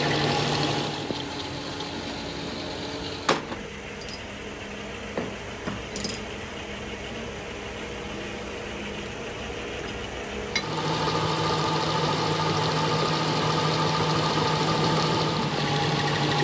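Tractor diesel engine running steadily at idle. About a second in it drops to a quieter stretch with a few sharp knocks, and it comes back louder about ten seconds in.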